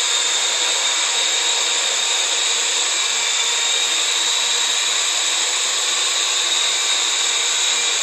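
Parrot quadcopter drone in flight, its electric motors and propellers giving a steady buzzing whine with no change in speed.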